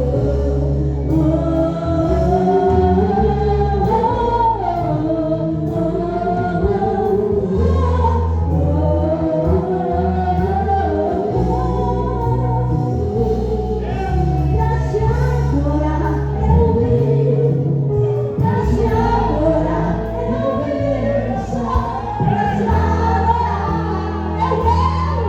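Live gospel worship music: a group of singers, a woman's voice among them, singing a slow praise song over long sustained bass notes.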